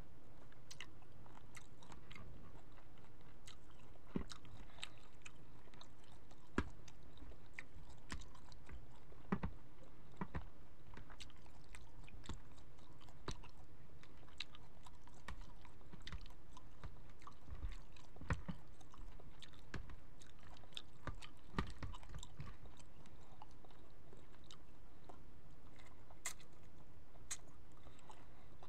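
A person biting and chewing cooked shrimp dipped in cocktail sauce close to the microphone, with many irregular sharp clicks and soft thumps.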